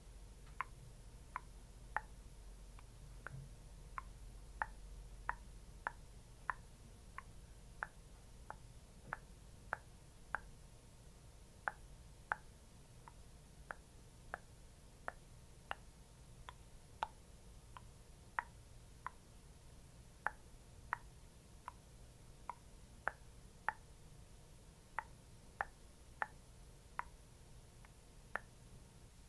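A long uneven series of short, soft plops, about one to two a second, each a quick drop in pitch. They are a close-miked skincare ASMR trigger sound.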